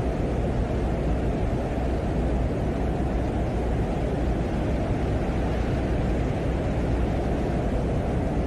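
Wind on the surface of Venus as picked up by the Venera 14 lander's microphone: a steady, unchanging rush of noise, heavy in the low end, with a constant low hum beneath.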